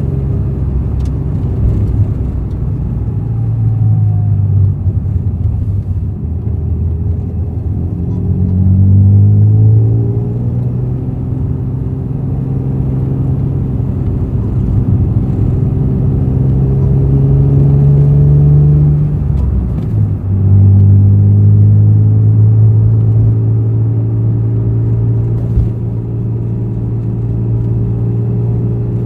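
Honda NSX NA1's V6 through a titanium aftermarket exhaust while driving. The engine pitch climbs under acceleration about eight seconds in, drops with a gear change about twenty seconds in, then holds steady at cruise.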